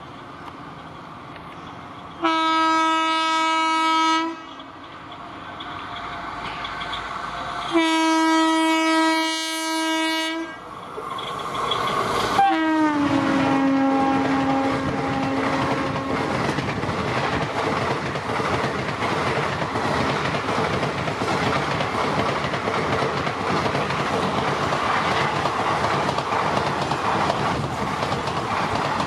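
WAP-4 electric locomotive sounding its horn in two long blasts as it approaches at high speed, then a shorter blast that drops in pitch as it passes. The passenger coaches then rush past with a steady rushing noise and wheel clatter.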